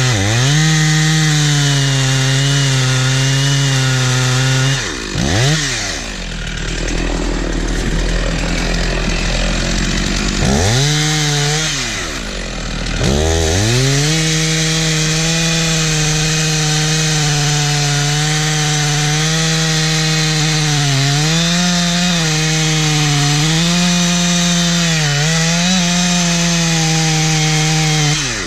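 Two-stroke chainsaw running at full throttle while cutting through a tree trunk, in what is most likely the felling cut. The revs drop and pick back up twice, about five and twelve seconds in, and otherwise hold steady.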